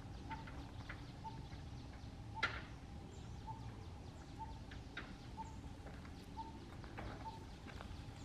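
A bird repeating a short, plain note about once a second, with a few faint chirps and one sharp, brief call about two and a half seconds in.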